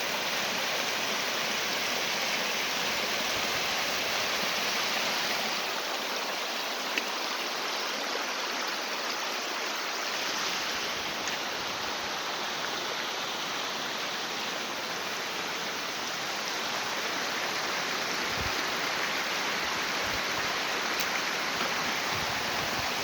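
Spring snowmelt runoff rushing steadily down a mountain stream.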